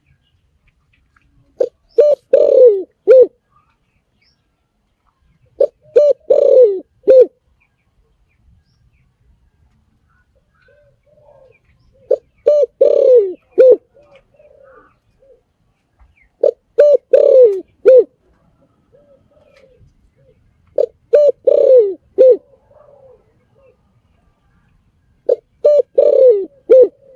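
Spotted dove cooing: six short phrases of a few low notes each, with a longer falling note in the middle, about a second and a half long and repeated every four to five seconds.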